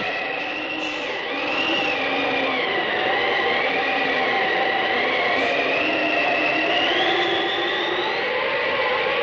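Eerie sound effect: a steady rushing noise with several high whining tones that waver slowly up and down over it.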